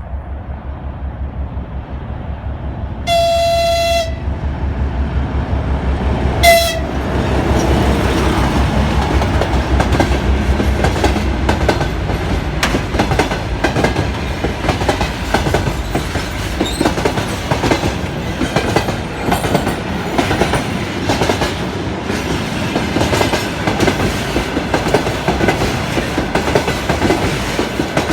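TEM18DM shunting diesel locomotive approaching with its diesel engine running in a low, even pulse. It gives one horn blast of about a second about 3 s in and a short toot a few seconds later. The train then passes with steady wheel clatter and clicks over the rail joints.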